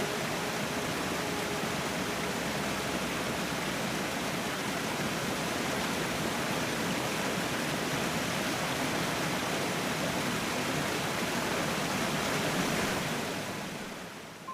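Waterfall, a steady rush of falling water that fades out near the end.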